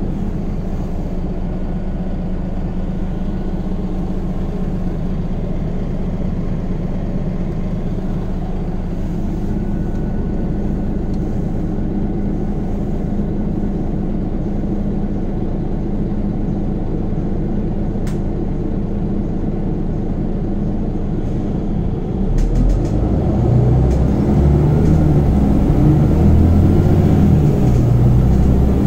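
Scania Omnicity city bus heard from inside while driving: its engine and ZF Ecomat automatic drivetrain run steadily with road noise, then turn to a louder, deeper rumble about 22 seconds in.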